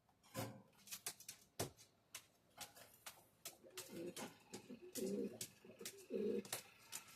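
Model train running on the layout track, its wheels clicking irregularly over rail joints. From about four seconds in, short low hum-like sounds repeat roughly once a second over the clicking.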